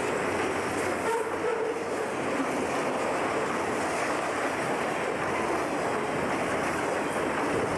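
Piggyback freight train cars, highway trailers on flatcars, rolling past on their steel wheels with a steady rushing noise.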